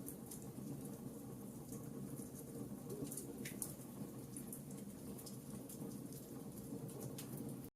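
Campfire burning: a low, steady rush of flame under scattered sharp crackles and pops from the burning wood, several a second.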